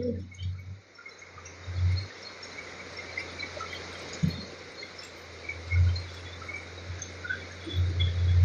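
Outdoor ambience: faint insect chirps over a steady hiss, with a few irregular low rumbles at about two, six and eight seconds in.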